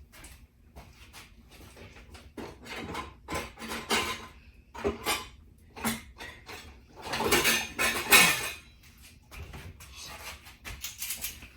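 Metal kitchen utensils and dishes clattering and knocking in an irregular run of clinks and rattles, loudest about seven to eight seconds in, as utensils are handled and sorted through.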